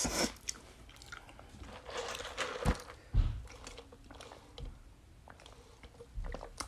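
Close-miked chewing of food, with small wet mouth clicks and two soft low thumps about three seconds in. A drink is sipped through a straw partway through.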